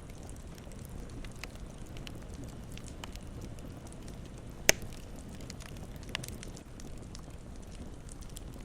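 Campfire burning with a low steady rumble and scattered small crackles, with one sharp loud pop just past the middle and a smaller one about a second and a half later.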